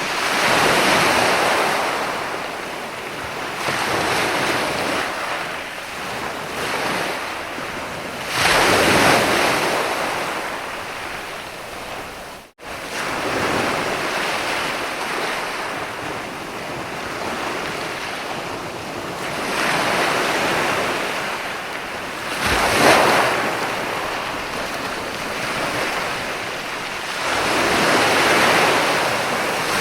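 Mediterranean sea waves breaking and washing onto a beach, rising in a surge every several seconds over a steady wash of surf. The sound cuts out abruptly for an instant near the middle.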